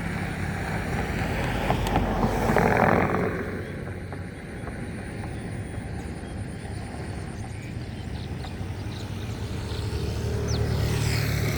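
An engine running steadily, with a louder rush of noise about two to three seconds in.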